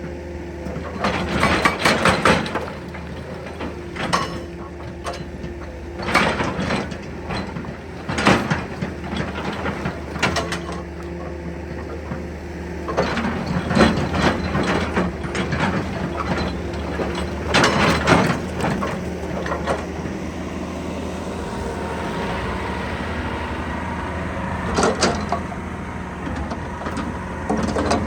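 Excavator's diesel engine running steadily, with loud irregular bursts of metallic clanking and scraping every few seconds as the machine works.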